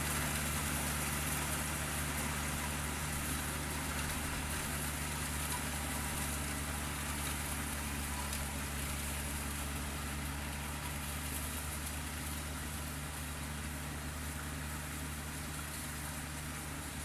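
Combine harvester's diesel engine running steadily with a low, even hum, slowly getting fainter.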